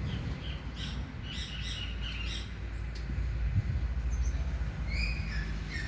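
Wild birds chirping: a quick run of short high chirps in the first two and a half seconds, then a couple of whistled notes near the end, over a steady low rumble of wind buffeting the microphone.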